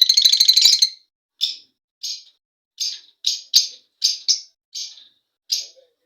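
Lovebirds calling: a dense run of rapid high chattering for about the first second, then about nine short, sharp separate chirps spaced roughly half a second apart.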